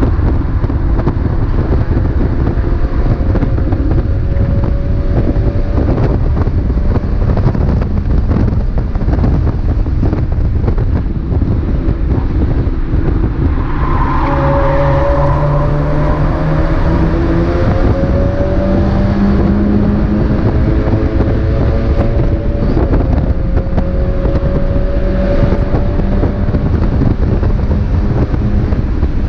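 Mazda MX-5 race car's engine heard from onboard under hard driving, with heavy wind and road noise throughout. Its pitch climbs and drops as the revs rise and fall through the corners.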